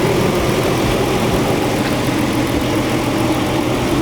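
Chrysler 200S's V6 engine running steadily at idle, heard loud and close.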